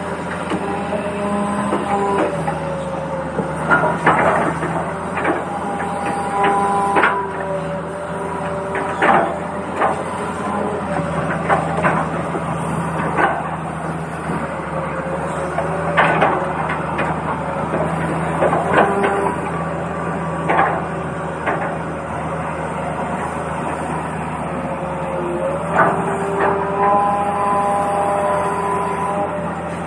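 Toy excavator's small electric motors whining steadily, their pitch shifting every few seconds as the machine works, with a dozen or so sharp clicks and knocks through it.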